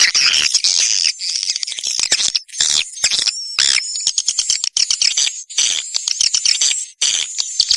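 Recorded swiftlet calls: dense, continuous high twittering chirps mixed with rapid clicks, the kind of lure sound played to call swiftlets into a nesting house.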